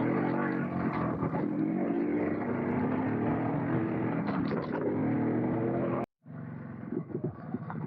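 Yezdi Roadking two-stroke motorcycle engine running steadily while riding. The sound cuts off abruptly about six seconds in, and a quieter engine sound follows.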